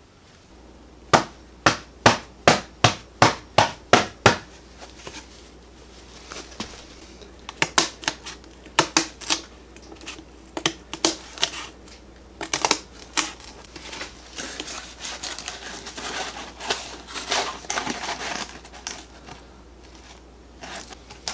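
Sharp taps and clatter of hand tools and parts being handled at a workbench. First comes a run of about eight evenly spaced taps, two a second, then irregular knocks and clinks.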